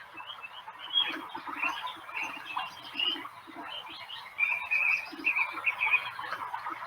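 Birds chirping: many short, quick calls overlapping, with soft low notes repeating underneath.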